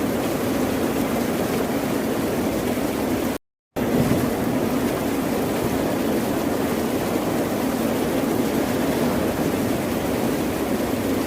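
Ocean surf making a steady, even wash of wave noise. About three and a half seconds in it cuts out to complete silence for about a third of a second, then resumes.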